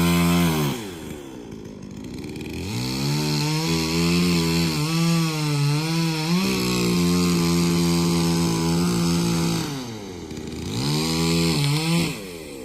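Petrol two-stroke chainsaw cutting into a tree trunk at full throttle. The engine drops toward idle about a second in and again near the end, revving back up to cutting speed in between.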